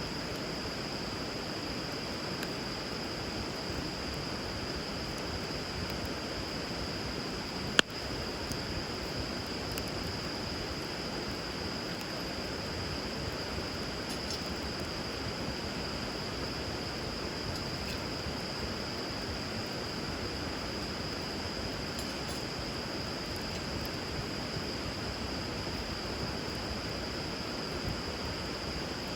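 River water flowing steadily under a wood fire burning on the water, with a steady high-pitched tone over it. One sharp pop from the fire about eight seconds in, and a few faint crackles.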